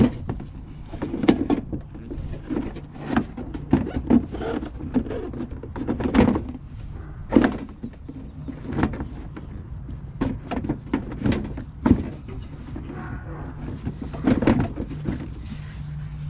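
Irregular knocks, clunks and rattles of a car part being handled and fitted back into place, over a steady low hum.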